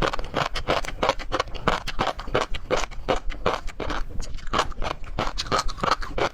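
Close-miked chewing and wet mouth smacking of someone eating seafood, a quick irregular run of clicks and squelches several times a second.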